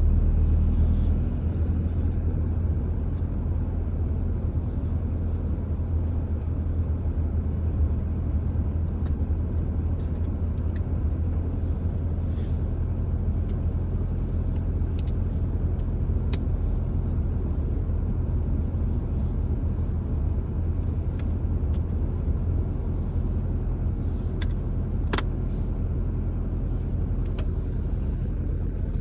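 Car driving at steady speed: a constant low rumble of engine and tyre noise, with a few light ticks, the sharpest about 25 seconds in.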